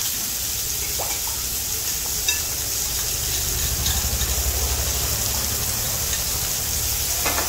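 Chopped onion, capsicum and tomato sizzling steadily in oil in a wok, with a few faint clicks and a low rumble that grows about three seconds in.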